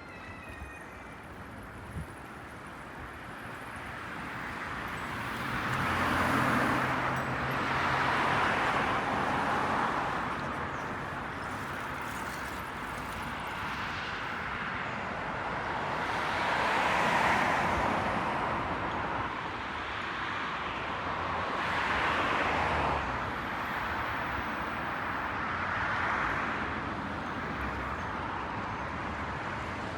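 A series of vehicles passing one after another, each one swelling up and fading away, about four passes over a steady background hum.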